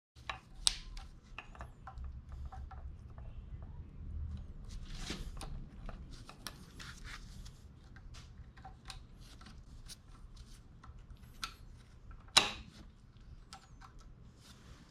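Light clicks and knocks of metal parts and tools being handled while working on an engine, over a low steady hum. There is a sharper knock just under a second in and another at about twelve seconds.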